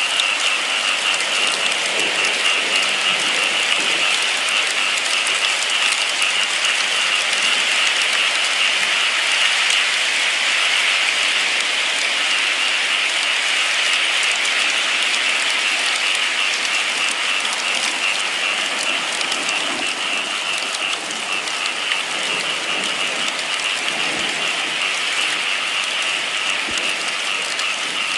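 Steady rain falling, an even hiss thick with fine drop ticks.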